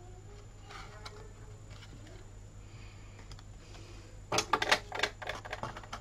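Faint rustling of cardstock being handled, then a quick cluster of sharp clicks and crinkles about four seconds in as the paper basket is handled and a plastic spring clamp is picked up off the cutting mat.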